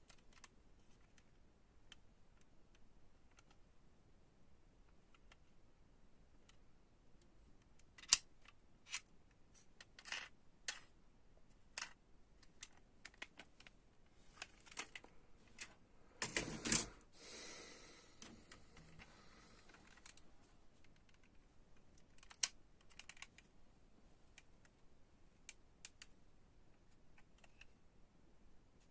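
Hands handling diecast toy cars and their packaging: scattered small clicks and taps, with a louder clatter and rustle about sixteen seconds in.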